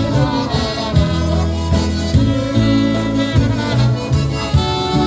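Live polka band playing a waltz without vocals, with horns carrying the melody over a bass line that moves about once a second.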